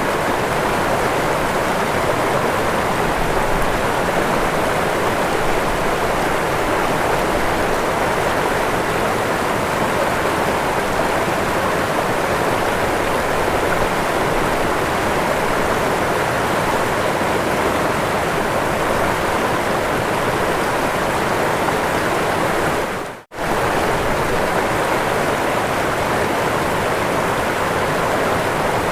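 Waterfall: a steady rush of falling water. It drops out for a split second about three-quarters of the way through, then carries on unchanged.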